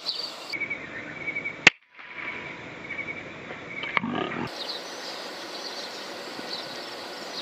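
A single FX Impact .177 PCP air rifle shot, a sharp crack about a second and a half in, over steady insect chirping. A brief low animal call about four seconds in.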